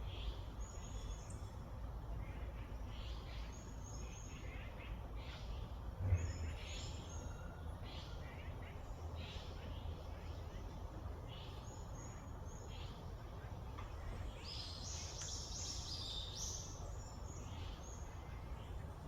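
Small birds chirping and calling in short high notes, with a denser flurry of calls near the end. A steady low rumble runs underneath, with a brief thump about six seconds in.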